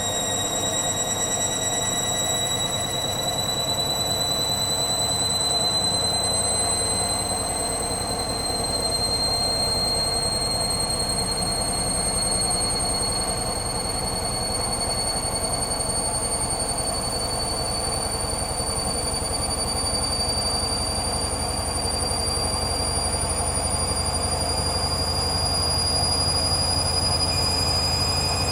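Hoover Dynamic Next washer-dryer spinning up in its spin cycle: a steady hum of the turning drum under a high motor whine that rises slowly and evenly in pitch as the drum speeds up.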